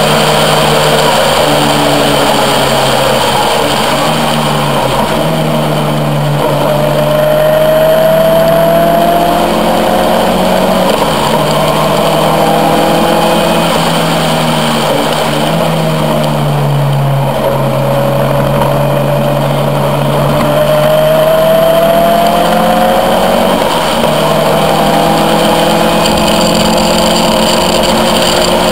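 Caterham R400's four-cylinder engine at speed, heard from the open cockpit, its pitch climbing twice as it accelerates through the gears, with short drops at the shifts. A steady rush of wind and road noise runs underneath.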